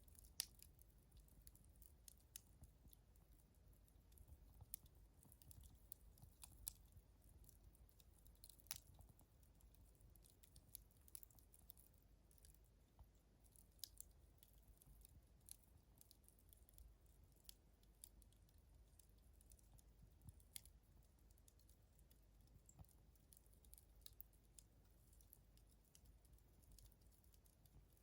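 Wood campfire burning low, giving faint, sparse, irregular crackles and ticks.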